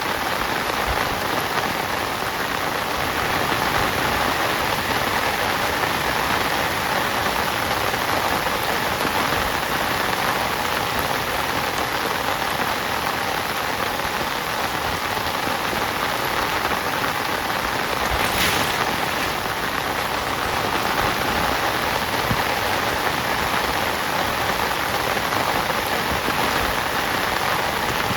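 Heavy rain falling steadily, an even unbroken hiss of rain.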